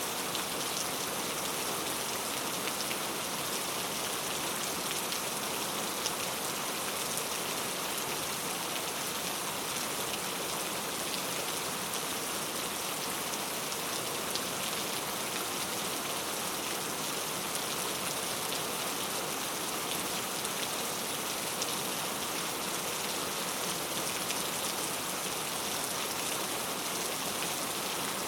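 Steady rain falling on a surface, an even hiss of many fine drop ticks.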